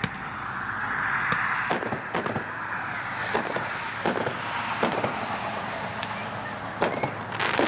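A Stoked 200-gram, 7-shot consumer fireworks cake firing: a launch hiss, then a series of sharp bangs, some in quick succession and others a second or so apart.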